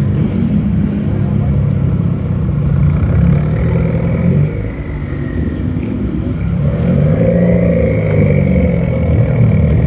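Car engine running loud, its pitch rising and falling as it revs, easing off around five seconds in and picking up again.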